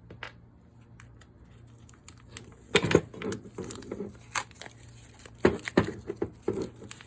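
Spray gun parts and tools handled on a workbench: a few scattered clicks, then busier clinks and several sharp knocks from a little before halfway, over a faint steady hum.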